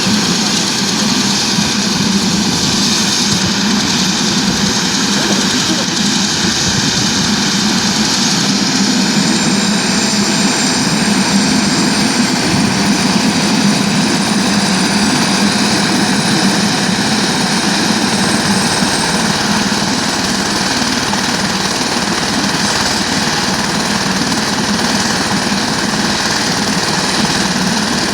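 Helicopter engine and rotor running steadily at takeoff power, with a fast, even blade chop and a faint high whine through the middle stretch.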